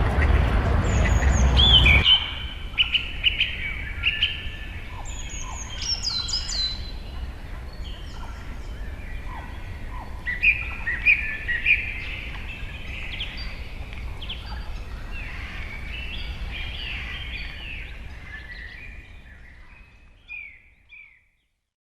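Several birds chirping and calling, a busy chorus of short chirps and trills that fades out near the end. It starts after a loud rushing noise that cuts off abruptly about two seconds in.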